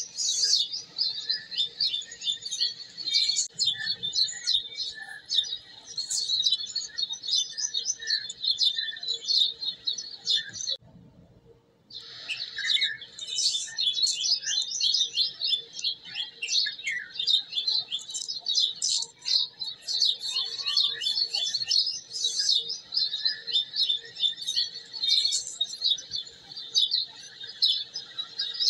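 Many small birds chirping in a dense run of rapid, high calls, which break off for about a second roughly eleven seconds in.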